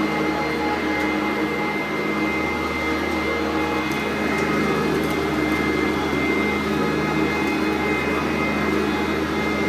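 Sanitaire SC899 commercial upright vacuum cleaner running steadily, its motor giving a constant whine.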